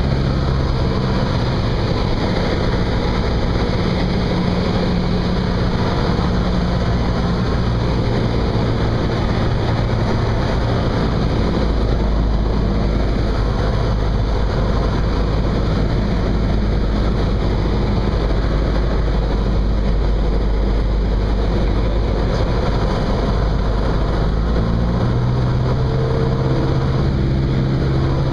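Cessna 172's piston engine and propeller running steadily, a constant loud drone whose engine note shifts about 25 seconds in.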